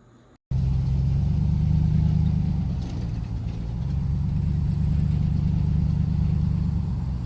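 Motor vehicle driving at a steady speed: a steady low engine and road hum that starts abruptly about half a second in.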